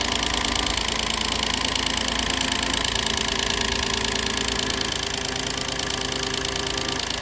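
A motor or engine starts suddenly and runs steadily, without change in speed.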